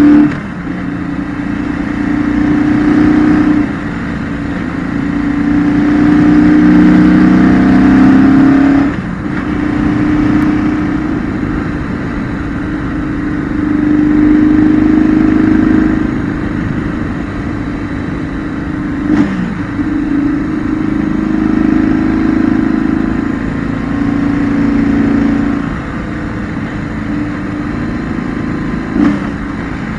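2008 BMW R1200GS's air/oil-cooled 1170 cc flat-twin boxer engine heard onboard without wind noise, pulling through a run of bends. The engine note rises under throttle and drops back in repeated surges, with a few brief breaks along the way.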